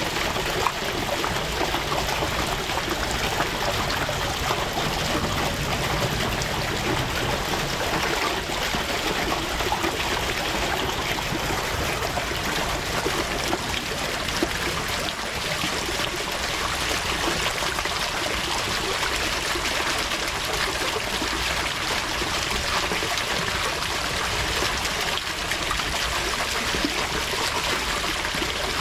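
Steady running water, an even trickling stream.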